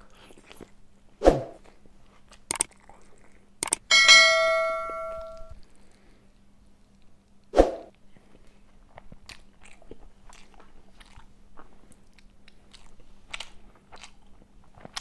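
Close-miked eating: chewing and small wet mouth clicks while eating fish curry. About four seconds in, a sharp clang rings for a second and a half, with a couple of dull thuds before and after.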